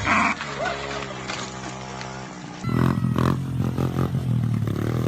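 Minibike's small engine running steadily. It gets louder and pulses about two and a half seconds in.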